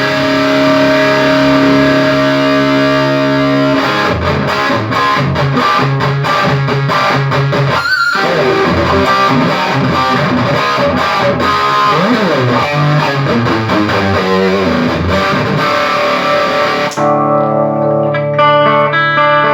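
Electric guitar played through a Peavey Triple XXX valve guitar amplifier on a distorted, high-gain sound: held chords, then quicker picked notes and slides. About three seconds from the end the distortion drops away and the notes ring clean. The amp is being sound-tested after its bad preamp capacitors were replaced and its output valves rebiased.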